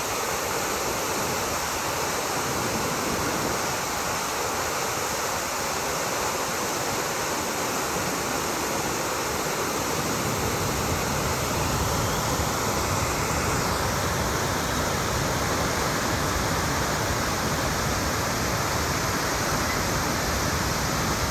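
Waterfall pouring steadily: a constant rush of falling water, with more deep rumble from about halfway through.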